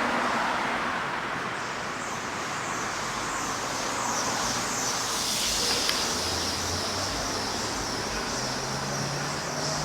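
Steady road and traffic noise: an even hiss with no distinct strikes, and a faint low engine hum coming in near the end.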